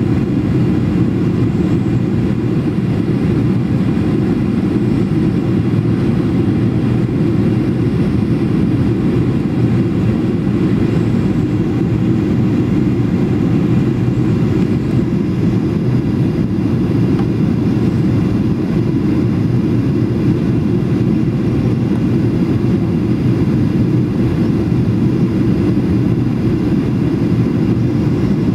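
Steady, loud cabin noise inside a Boeing 737 in flight: a deep rumble of engine and airflow with no change in level.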